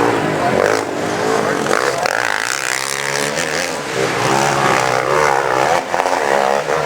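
A KTM 580 hill-climb motorcycle engine revving hard on a climb. Its pitch swings up and down repeatedly as the throttle is worked.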